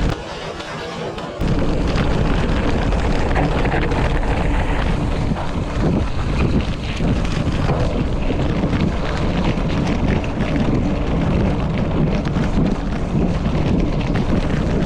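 Loud wind rushing over the microphone while riding. It drops to a thinner, quieter rush for about the first second and a half, then comes back full.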